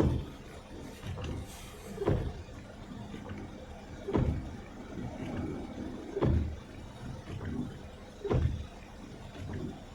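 A low thump repeating very evenly about every two seconds, over a faint steady hum.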